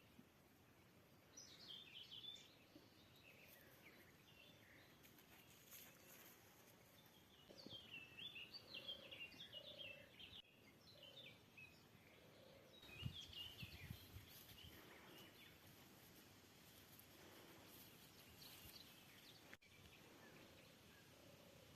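Faint songbird song in short, repeated chirping phrases, with a second, lower call now and then. A brief low rumble comes about thirteen seconds in.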